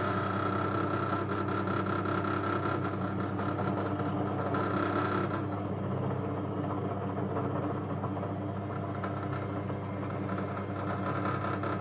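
SK11 SDP-600V 600 W bench drill press running steadily with an even hum and a high whine, with a hiss in the higher range that drops away about five seconds in.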